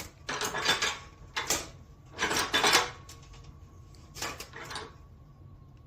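Sheet-metal brake at work bending up the sides of a small galvanized sheet-metal piece: four metallic clanks and scrapes, about a second or two apart.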